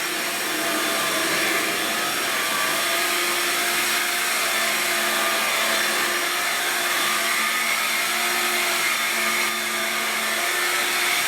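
Cordless stick vacuum running steadily on carpet, with a motor whine that wavers slightly as it picks up synthetic pet hair.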